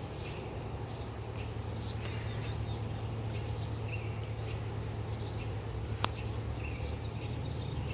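Small birds chirping in short, high peeps scattered every second or so, over a steady low background rumble. A single sharp click about six seconds in.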